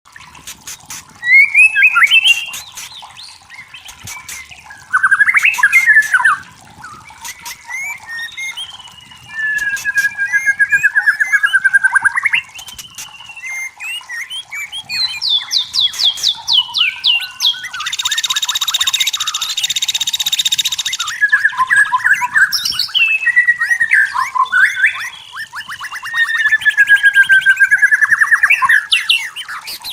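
White-rumped shama singing a long, varied song of whistles, rapid trills and chattering note runs, with a harsh buzzy burst lasting about three seconds midway through.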